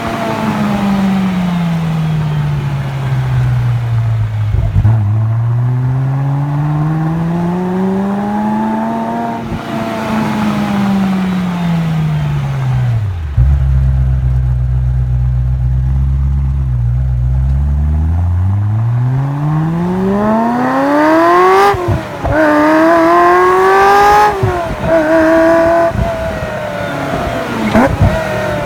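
Ferrari F355's V8 running through a full Tubi exhaust. The engine speed swells and falls slowly, sits low with a deep rumble, then climbs hard through several quick upshifts, each a sudden drop in pitch, near the end.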